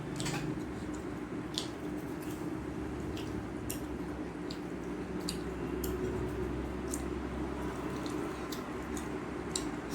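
Eating sounds: soft, wet clicks and squishes of chewing and handling rice and fish curry, scattered irregularly, over a steady low hum.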